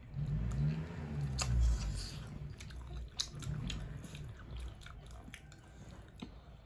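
A person chewing and biting food, with scattered sharp clicks of eating.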